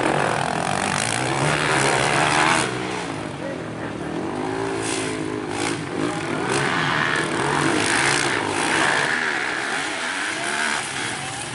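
Several motocross bike engines racing, revving up and down as the bikes pass, their pitches overlapping.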